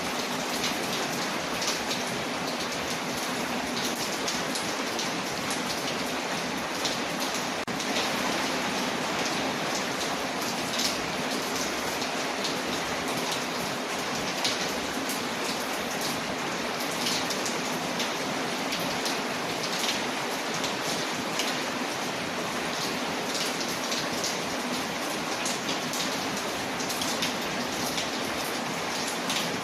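Steady rain falling, with many small sharp crackles scattered through it from a wood fire burning.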